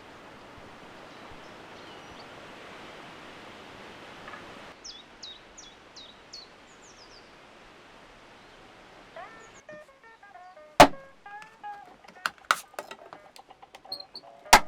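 Outdoor background noise with a bird giving a quick series of about six short, high, falling chirps. About ten seconds in it cuts to music with sharp percussive hits.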